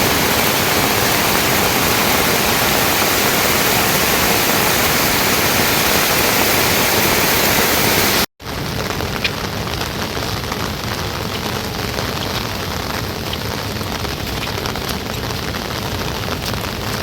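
Steady rain falling, an even hiss. About eight seconds in it drops out for a moment, then comes back somewhat lighter, with scattered ticks of single drops.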